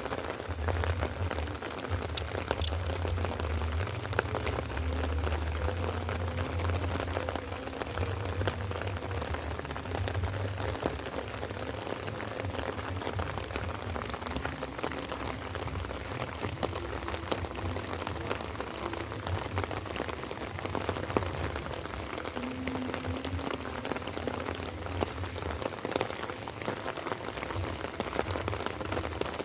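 Light rain falling: a steady patter of drops with scattered sharper drips, over a low rumble that is heavier in the first ten seconds or so.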